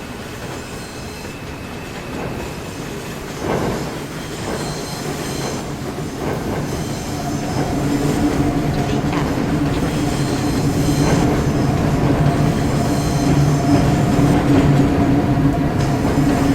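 Subway train approaching, getting steadily louder, with wheels clacking over rail joints; a steady hum from the train joins about halfway in.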